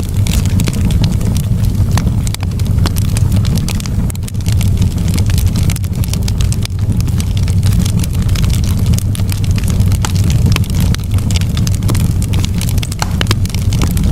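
Campfire burning, the wood crackling in many quick, irregular snaps and pops over a steady low rumble.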